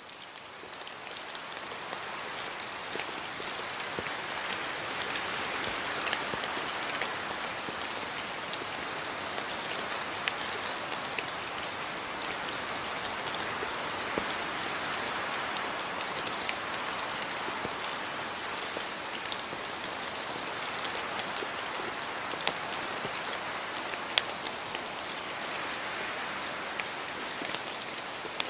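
Steady rain falling, an even hiss dotted with the ticks of individual drops hitting a surface, fading in over the first couple of seconds.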